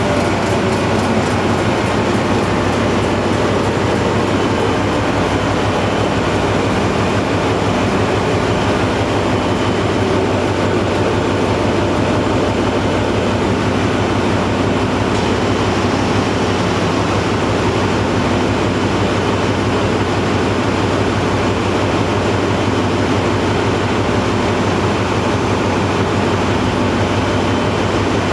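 Hyundai Himsen marine diesel generator engine running loudly and steadily. Its pitch eases down slightly at first, then holds.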